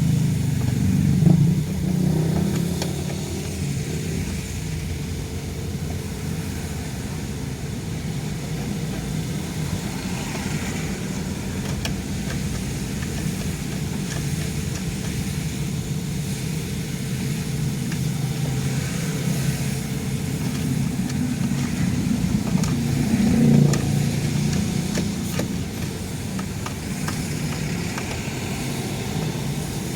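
Car driving in traffic, heard from inside the cabin: a steady engine and tyre road rumble that swells briefly about a second in and again about three-quarters of the way through.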